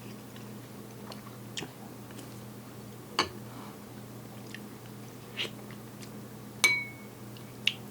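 Someone eating: a spoon clicks against a bowl about five times, the loudest clink near the end briefly ringing, with quiet chewing between, over a steady low hum.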